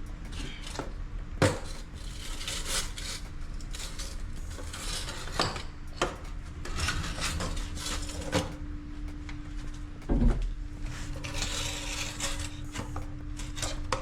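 Irregular metallic clanks and knocks with scraping and rubbing, as tools and pipe are handled during plumbing work. There are two louder knocks, about one and a half seconds in and again near ten seconds, over a steady low hum.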